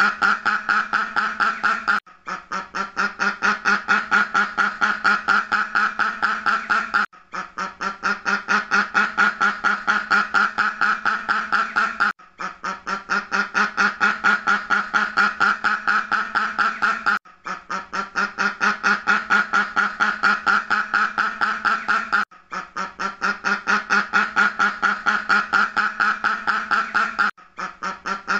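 Duck quacking in fast, rapid-fire runs of calls, each run lasting about five seconds before a brief break and starting again: a looped recording.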